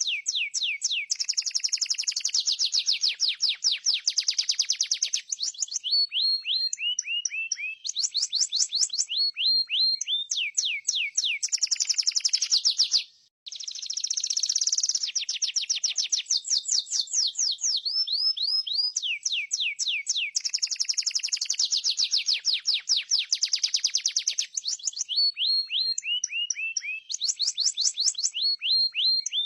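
Canary song used as a master recording: high trills of rapidly repeated down-sweeping notes, switching between rolls of different speed and pitch. The sequence breaks off briefly about 13 seconds in and then runs through the same phrases again, as a looped recording does.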